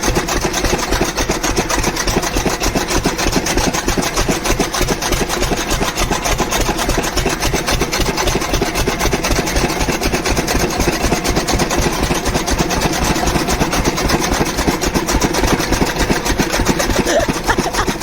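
Powered chaff cutter chopping fodder: a loud, steady, rapid run of cutting strokes with the machine running throughout.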